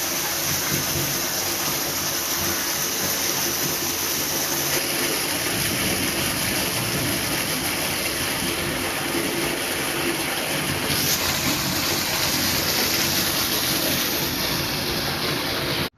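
Heavy monsoon rain pouring down, a dense steady hiss that shifts slightly about five and eleven seconds in and cuts off suddenly at the end.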